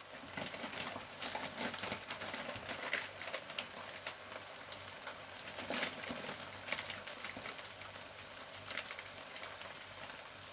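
Onion, tuna and tomato mixture sizzling and bubbling in oil in a wok, with irregular small crackles and pops.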